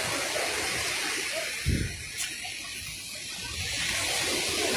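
Steady hiss of sea surf, with a short low thump about a second and a half in.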